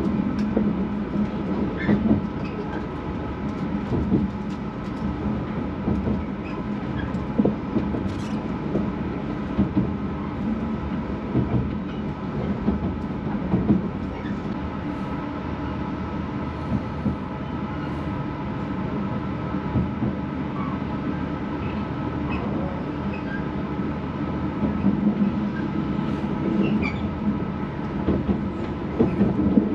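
Train running, a continuous rumble with a steady hum and scattered short clicks.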